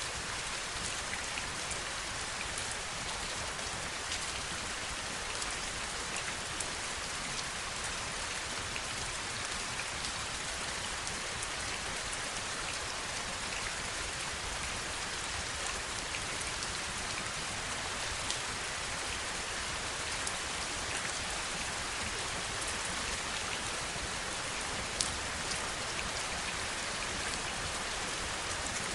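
Heavy rain falling steadily, an even hiss with scattered individual drops ticking through it; one drop about 25 seconds in is a little louder than the rest.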